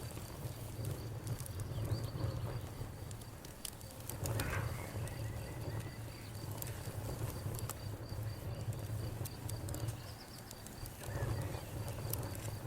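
Campfire burning, with scattered sharp crackles and pops over a low rumble that swells and fades. An insect chirps steadily in an even, high pulse behind it.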